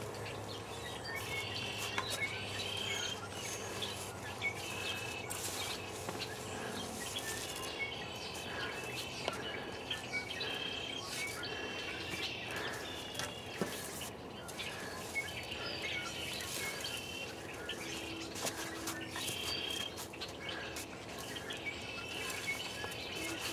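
Small birds chirping in short repeated phrases every few seconds over steady outdoor background noise, with a few sharp clicks now and then.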